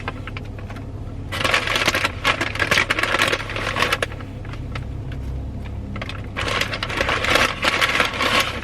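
Paper food packaging rustling and crinkling as fast-food items are handled and unwrapped, in two spells of dense crackle with a lull between, over a steady low hum.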